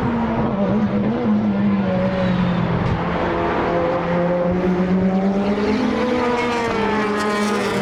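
Time-attack race car engines running at fairly steady revs, the engine note wavering slightly up and down in pitch.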